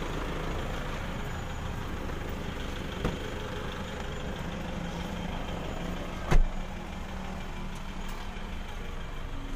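Mitsubishi Mirage G4's three-cylinder engine idling steadily. A sharp click comes about three seconds in, and a single loud thump a little after six seconds.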